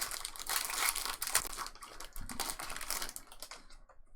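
Crinkling and rustling of foil trading card pack wrappers as packs are handled and opened, dying away near the end.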